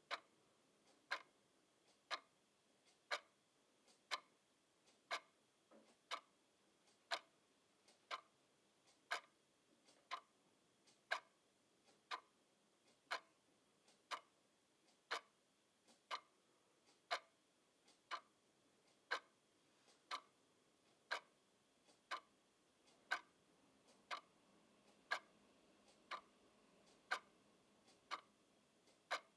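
A clock ticking steadily and evenly, about one tick a second, faint and sharp.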